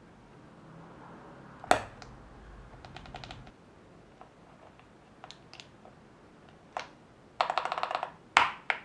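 Sharp plastic clicks and taps from mechanical keyboard parts being handled and fitted during assembly: a single loud click, scattered light ticks, then a quick clattering run of clicks and two loud clicks near the end.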